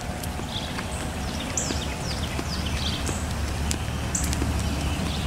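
Birds chirping again and again in short, high, downward-sliding calls over steady rain and a low rumble on the microphone as it is carried at a walk.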